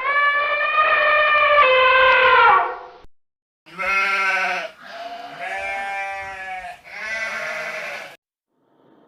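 Sheep bleating: one long call of nearly three seconds, then three shorter calls with short gaps between them.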